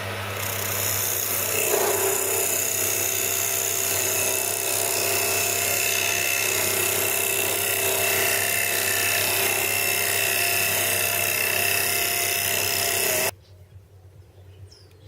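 A power tool running under load with a steady, hissing abrasive or cutting noise as it takes a timber workpiece down to size. The sound stops abruptly near the end.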